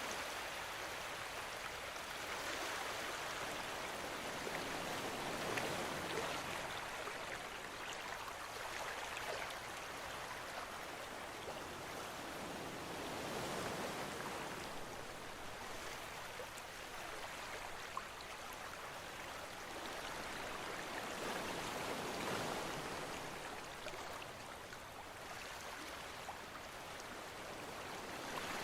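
Ocean surf with wind through palm trees: a steady hiss that swells and fades every few seconds.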